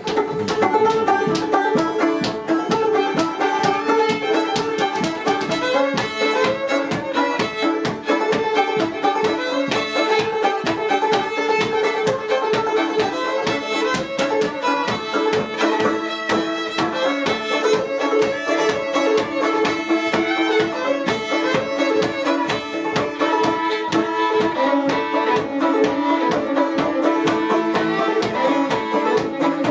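Fiddle and plucked-string accompaniment playing a lively traditional dance tune to a steady beat.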